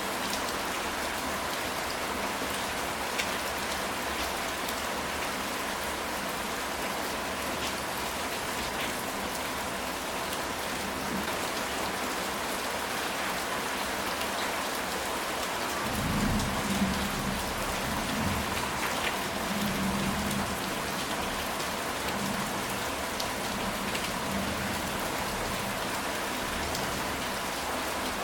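Steady rain falling on a ceramic tile roof, with scattered drops ticking through the even hiss. About halfway through, a low roll of thunder rumbles for several seconds and fades.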